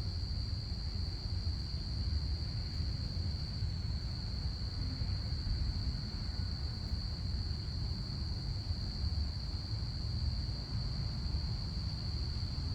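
Crickets chirping in a steady, unbroken high trill, over a constant low rumble.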